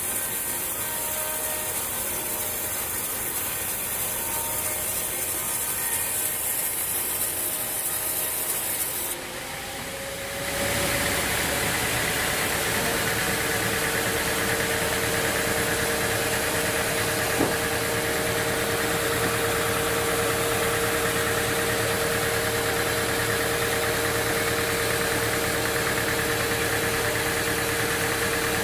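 Sawmill machinery running steadily without cutting. About nine seconds in, the sound changes abruptly and dips briefly. A louder, steady engine-like running with a constant hum then takes over.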